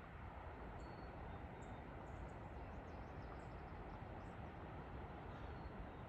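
Faint, steady outdoor background noise, with a few short, faint, high bird chirps through it.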